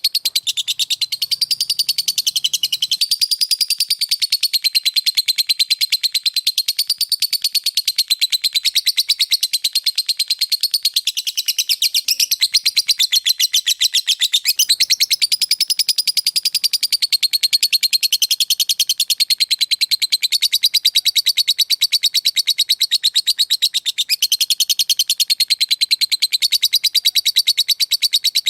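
Lovebird giving a long, unbroken ngekek: a shrill, very rapid chattering trill of fast clicking pulses. It carries on without a pause, wavering a little in pitch.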